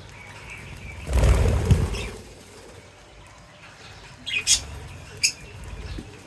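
Pet bird's wings flapping in a flurry lasting about a second, starting about a second in, followed near the end by a few short, high chirps.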